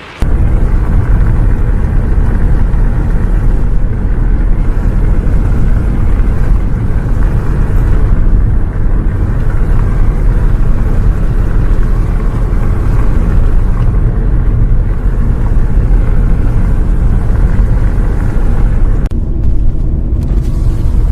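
Steady, loud low rumble of a bus heard from inside, engine and road noise running on, cutting in abruptly at the start.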